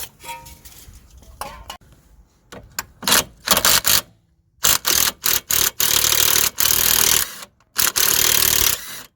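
Impact wrench hammering in several bursts as it undoes the 17 mm top nut of a worn anti-roll bar drop link; the longest bursts come in the second half.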